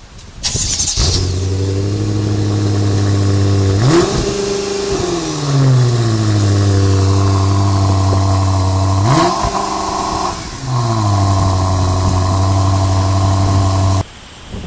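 BMW M5 F10's twin-turbo V8 exhaust starting up with a loud flare about half a second in, then settling to a steady idle. It is blipped twice, revving up and falling back to idle each time, and the sound breaks off abruptly near the end.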